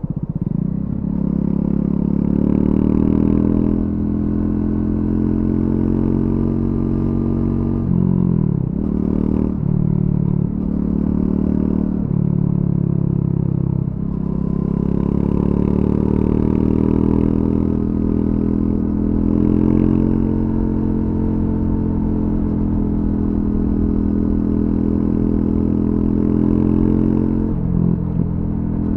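Triumph Scrambler 400X's single-cylinder engine running through its stock exhaust under way, the revs climbing steadily for long stretches. A few times, about eight to twelve seconds in and again near the end, the pitch falls sharply and climbs again.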